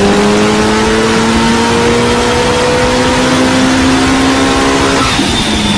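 Mitsubishi Lancer Evolution IX's turbocharged 4G63 four-cylinder, built to about 590 all-wheel horsepower, making a full-throttle pull on a chassis dyno. Its pitch climbs slowly and steadily, then falls away sharply about five seconds in at the end of the pull, leaving a high whine.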